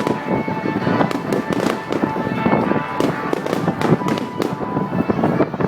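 Fireworks display: aerial shells bursting in a rapid, continuous series of bangs and crackles, several reports a second.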